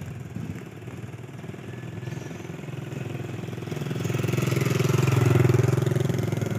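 A vehicle engine running, growing louder over a few seconds and then easing off as it passes close by.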